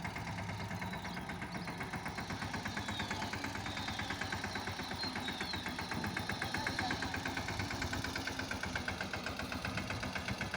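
Mahindra Yuvraj 215 mini tractor's single-cylinder diesel engine running steadily with an even, rapid beat.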